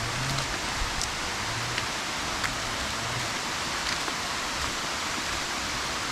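Rushing water of a small jungle waterfall or stream, a steady even hiss, with a few faint light ticks over it.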